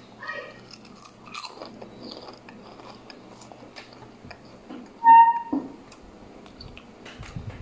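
Chewing and crunching of crispy potato snack puffs: small crisp crunches throughout. About five seconds in, a loud, short high-pitched tone sounds for about half a second.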